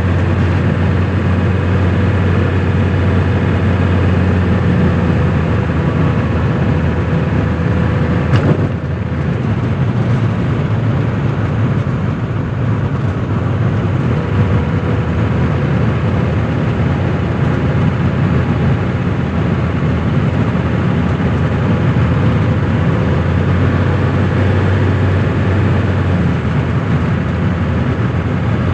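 A 1985 Mercedes-Benz 300D W123's 3.0-litre five-cylinder turbo diesel runs steadily while the car cruises, mixed with road noise. There is one brief knock about eight and a half seconds in.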